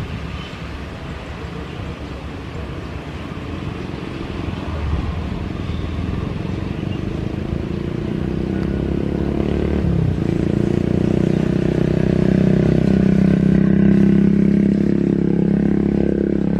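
An engine running and growing steadily louder over rushing noise, with a low, steady hum that holds its pitch for the second half.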